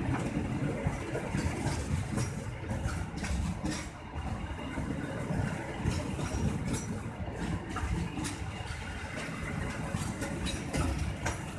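Stainless-steel passenger coaches rolling past at close range: a steady rumble of wheels on the rails with irregular clicks and clacks.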